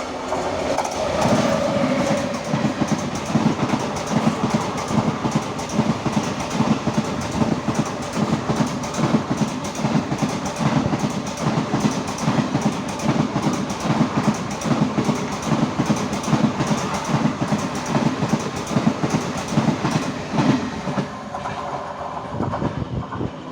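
A crossing train running past on the adjacent track at speed, its wheels clicking over the rail joints in a fast, steady clickety-clack for about twenty seconds, easing off near the end.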